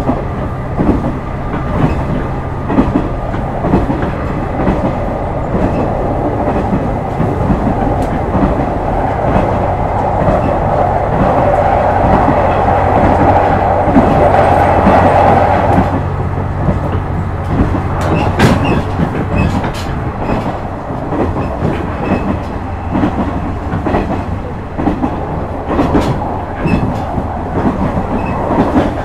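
Running sound inside a JR West KiHa 126 series diesel railcar at speed: the diesel engine runs steadily under the rumble of the wheels, which click over rail joints. A louder rushing noise swells between about six and sixteen seconds in.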